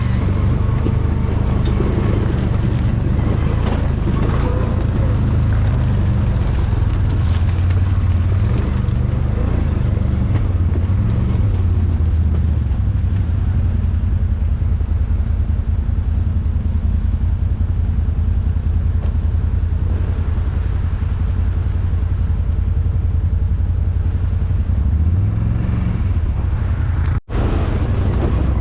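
ATV engine running steadily, a low even drone with no change in speed, briefly cut off near the end.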